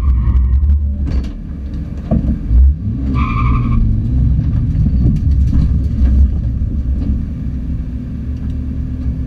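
Modified BMW M3 E92 biturbo's V8 engine heard from inside the caged cabin, running loud and steady with its load changing. Two short high squeals, one near the start and one about three seconds in, and a heavy thump about two and a half seconds in.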